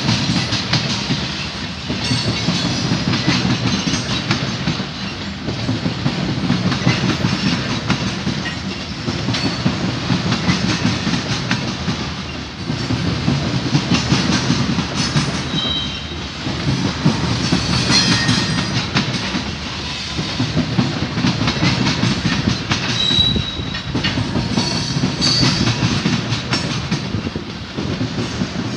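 Freight train of covered hopper cars rolling past, its wheels clacking over rail joints with a steady rumble that swells and dips as each car's trucks go by. A couple of brief, faint high wheel squeals cut in partway through.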